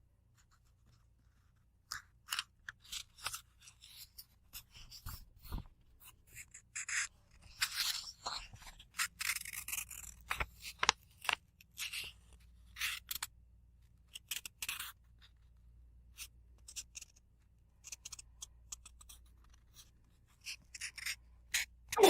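Book pages turning and being rubbed: a string of short, crisp papery flicks and rustles beginning about two seconds in, with a few longer sweeping rustles in the middle.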